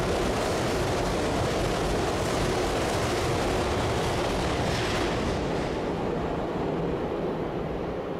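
Tokyu Den-en-toshi Line electric commuter train running past the platform: steady rumble of wheels on rail with a rushing hiss, fading in the last couple of seconds as the end of the train clears.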